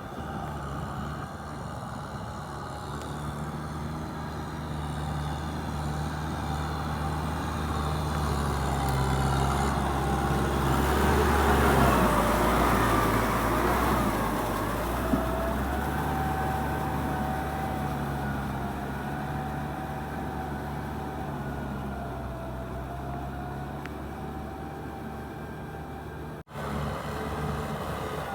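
Kubota tractor's diesel engine running steadily under load with a wavering whine, growing louder to a peak about halfway through and then easing off. The sound cuts out for an instant near the end.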